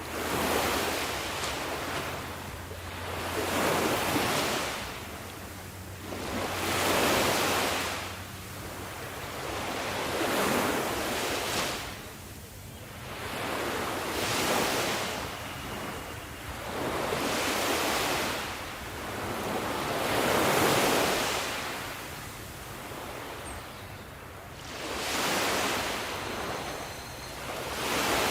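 Sea waves washing in, the surf swelling and falling away in repeated surges about every three seconds.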